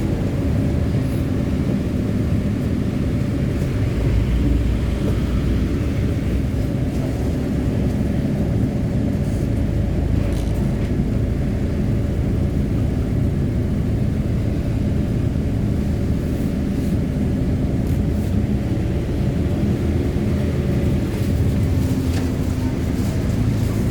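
Transjakarta city bus under way, heard from inside the cabin: a steady low engine and road rumble with a faint engine hum.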